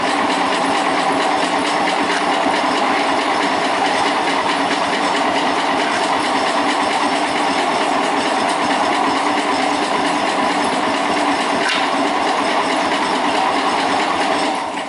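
Suburban 10 tractor engine being cranked on its starter for about fifteen seconds in a fast, steady rhythm. It never catches and stops cranking suddenly at the end. This is a hard cold start, which the owner puts down to a fouled spark plug.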